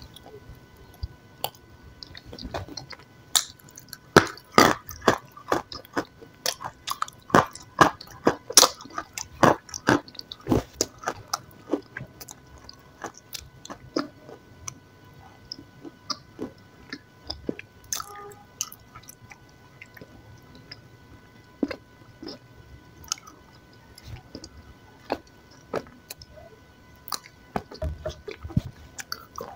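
Close-miked chewing and mouth smacking: a run of sticky, wet clicks, thick for the first ten seconds or so, then sparser and more spaced out.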